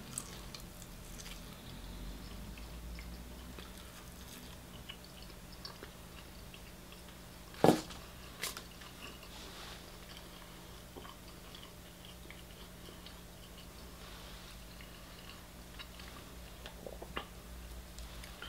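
Close-miked chewing of crispy fried chicken, with faint crunches and small mouth clicks. A single sharp, loud click about eight seconds in, and a softer one just after.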